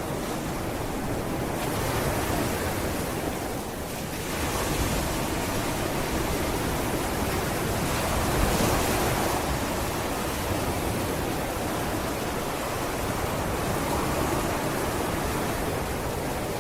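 Sea waves breaking and washing up the beach, a steady rush of surf that swells and eases every few seconds, with some wind on the microphone.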